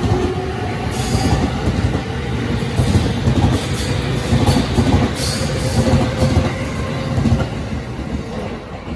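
JR East E231-series electric commuter train pulling out past the platform: a steady running rumble with the wheels clacking over rail joints. The sound fades as the last car goes by near the end.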